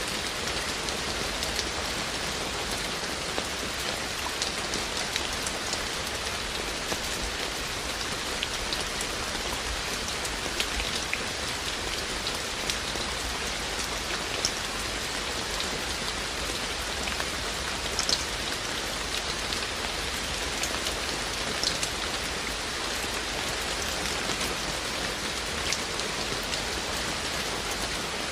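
Steady rain falling, an even hiss with scattered individual drops ticking a little louder on top.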